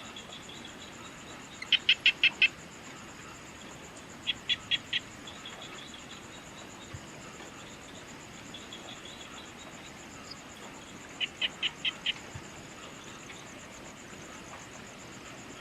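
Insects trilling steadily in a high, fast pulsing chorus. Over it an animal calls three times in quick series of four to six short, sharp notes; these are the loudest sounds.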